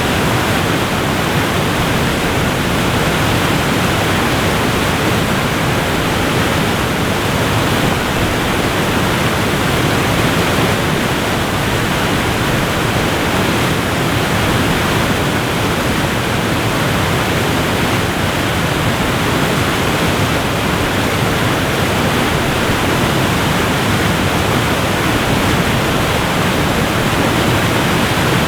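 Waterfall rushing steadily: an even, unbroken wash of falling water, heaviest in the lower and middle range.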